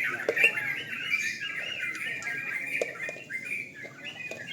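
Several yellow-vented bulbuls (trucukan) singing at once in a busy, overlapping chorus of quick warbling phrases. A few sharp clicks come through, about half a second in and again near three seconds.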